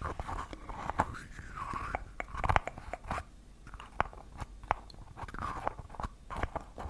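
Close-miked ASMR trigger sounds: a string of crisp, irregular clicks and crunchy crackles over soft breathy noise.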